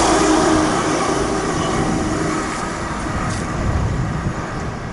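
Class 180 diesel multiple unit running through at speed and receding, its engine and wheel noise fading steadily.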